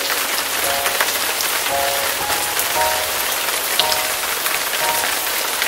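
Steady rain falling on a wet concrete porch and garden, a dense even hiss flecked with the ticks of single drops. A soft melody of short musical notes plays over it.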